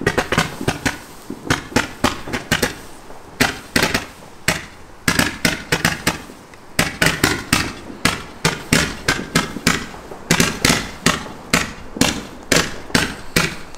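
Fireworks going off in a rapid, uneven series of sharp bangs, several a second, with a brief lull about six seconds in.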